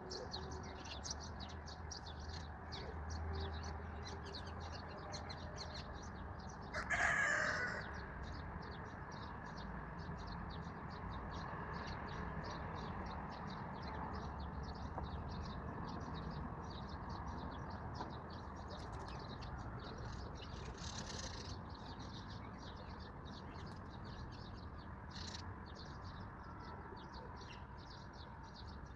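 Dense, rapid chirping of many small birds. About a quarter of the way in, one louder, harsher bird call lasts about a second.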